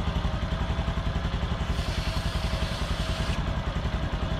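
Honda postie bike's small single-cylinder four-stroke engine idling with a steady, even putter.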